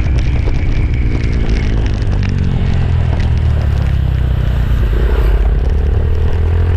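Motorcycle engine running under way, with a heavy low rumble; the engine note sinks and then climbs again about five seconds in.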